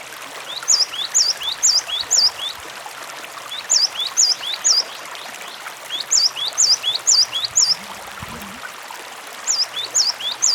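Cinereous tit (gelatik batu) singing short phrases of three to five sharp, clear whistled notes, a phrase every two to three seconds, four phrases in all, the last running on at the end. Under it is the steady sound of running water.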